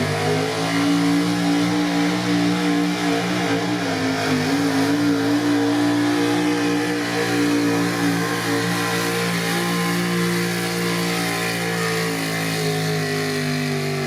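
Pro street gas pulling truck's engine held at high revs under load as it pulls a sled. The pitch stays nearly level, dips briefly about four seconds in, and eases down near the end.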